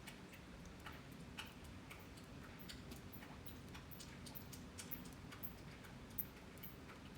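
Scattered raindrops ticking irregularly on a hard surface, a few light drips a second over a faint low background hum.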